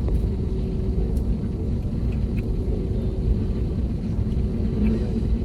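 Steady low engine rumble with a faint steady hum, as in a vehicle or aircraft interior after arrival.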